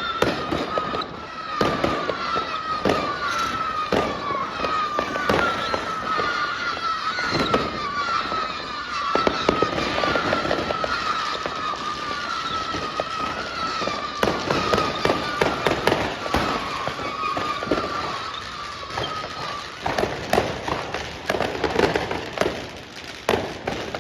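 New Year's fireworks going off all around: a dense run of bangs and crackles from many rockets and firecrackers. A repeating wavering whistle sounds over them until a few seconds before the end, when it stops.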